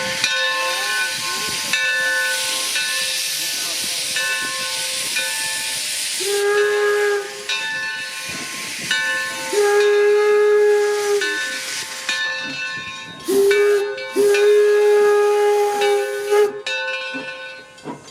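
Steam locomotive hissing as steam is vented, then its steam whistle sounding four blasts: one short, one long, one short, one long.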